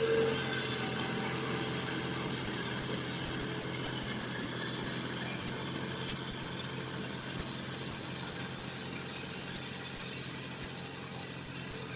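Sears Suburban garden tractor's engine running steadily while snowblowing. It is loudest in the first two seconds, then slowly fades.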